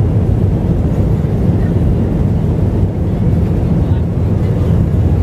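Steady low rumble of an Airbus A321-200's engines and airflow, heard from inside the passenger cabin.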